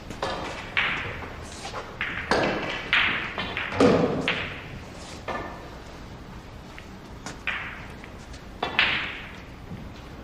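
Billiard balls and cues clacking and knocking in a series of sharp strikes at uneven intervals, each ringing on briefly, the loudest about four seconds in.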